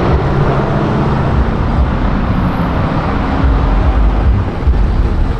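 Car engine running with a loud, steady low rumble and no clear revs.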